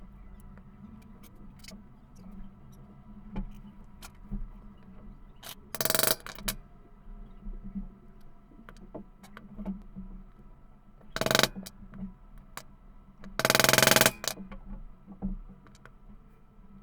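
Small tools and metal parts handled on a workbench during vacuum cleaner motor repair: scattered clicks and taps, broken by three short, loud, harsh bursts of noise about six, eleven and fourteen seconds in.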